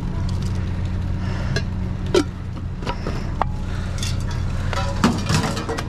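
Junk knocking, clicking and rustling as items are shifted around by hand inside a dumpster, with sharper knocks about two seconds in and near the end. Under it runs a steady low hum.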